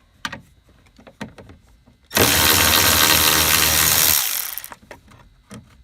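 Cordless electric ratchet (Milwaukee M12) backing out a 10 mm bolt: a few light clicks, then the motor runs steadily for about two seconds and winds down.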